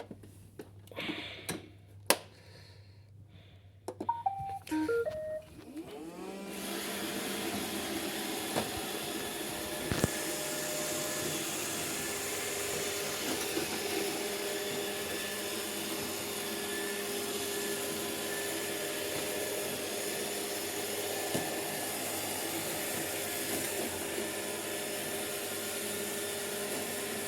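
A few clicks and short descending beeps, then at about six seconds an iRobot Roomba robot vacuum's motors spin up and run steadily.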